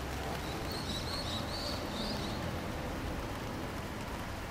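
A bird gives a quick series of short, high chirps from about half a second to two seconds in, over a steady outdoor hiss of light rain.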